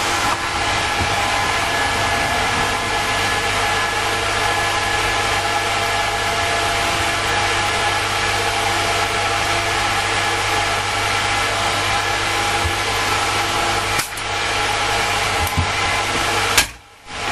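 Paint-spraying equipment running steadily: a motor hum with a rushing air hiss as a spray gun puts engine enamel on. It dips briefly about 14 s in and cuts out after a click near the end.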